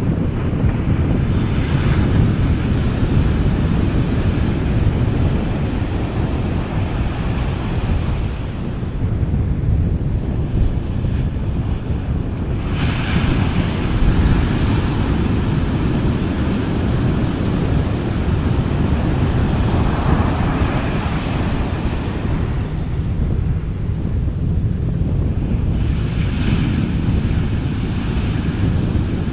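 Small sea waves breaking and washing up a beach, a fresh wash of surf every six or seven seconds over a steady low rumble, with wind buffeting the microphone.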